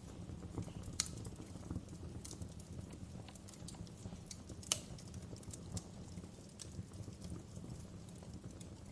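Wood fire burning in a fireplace, crackling: irregular sharp pops and snaps over a low steady rumble of the flames, with two louder pops, about a second in and about halfway through.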